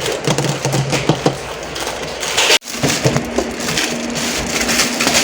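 Plastic packaging crinkling and crackling as it is handled during unboxing, with many small clicks. The sound cuts out abruptly for an instant about two and a half seconds in.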